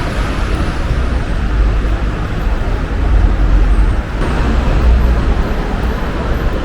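Road traffic noise: a steady low engine rumble with a hissing road noise over it, swelling briefly about four seconds in.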